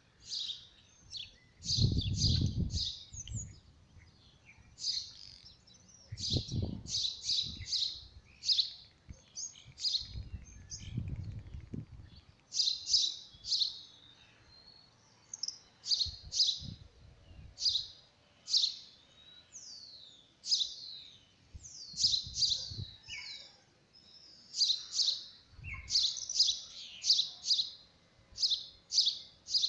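Birds chirping, with short, quick high chirps coming in clusters over and over. A few dull low rumbles, each about a second long, come in between at intervals.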